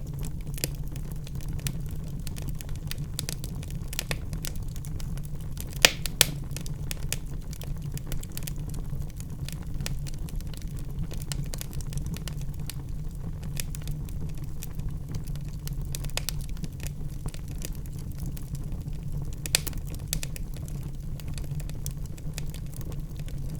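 Wood fire burning in a fireplace: a steady low rumble of flames with frequent small crackles and sharp pops from the burning logs, the loudest pair of pops about six seconds in.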